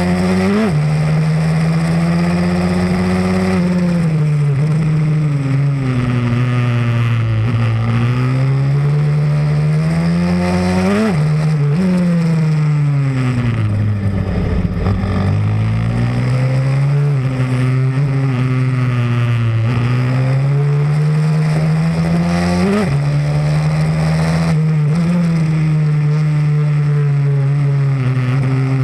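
Single-cylinder pit bike engine under way at racing pace, its pitch climbing as it accelerates and falling as it slows for corners. It hits several sharp peaks with sudden drops that mark gear shifts.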